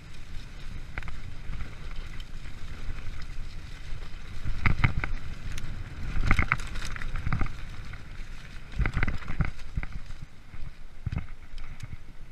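Freeride mountain bike rolling over a forest trail: a steady rumble of tyres on dirt, with bursts of rattling clatter from the bike over rough ground three times, about five, six and a half, and nine seconds in.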